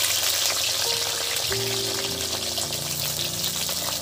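Onions sizzling steadily in hot oil, just dropped into the pan.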